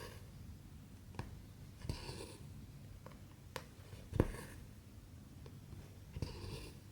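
Hand cross-stitching: sharp clicks as the needle pierces and taps the Aida fabric, with two short soft swishes of cotton thread drawn through the cloth.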